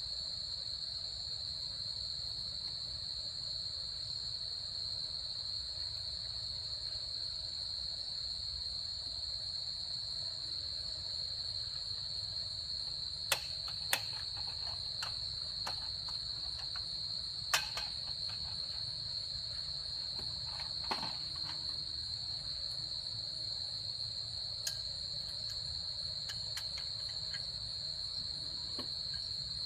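Insects chirring in one steady, unbroken high-pitched drone over a low rumble, with a few sharp clicks, the loudest about 13, 14 and 17 seconds in.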